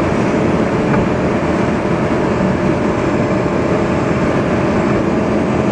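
Lamborghini Gallardo's V10 engine running steadily at high speed, heard inside the cabin together with loud wind and tyre roar.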